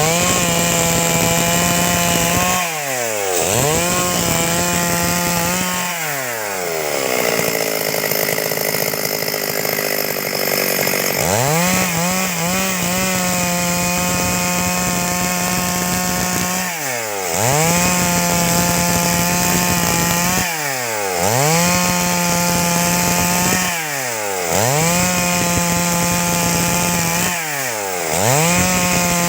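Stihl 382 two-stroke chainsaw held at high revs while cutting wood, its pitch dropping and climbing back again every three to four seconds as the throttle is eased and reopened. Near the middle the engine note sinks for a few seconds, as though the saw is loaded down deeper in the cut.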